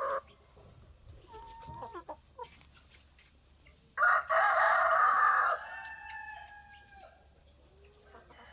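A rooster crows once about four seconds in, a loud call that trails off over about three seconds, with a few short chicken clucks before it.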